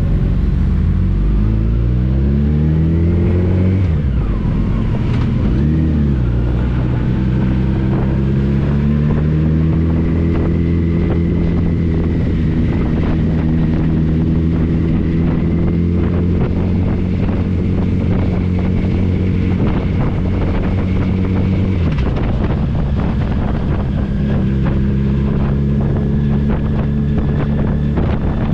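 Touring motorcycle engine under way, with wind noise: the engine note rises as it accelerates over the first few seconds, falls away briefly about four seconds in, then holds steady at cruising speed, drops about three-quarters through and settles again.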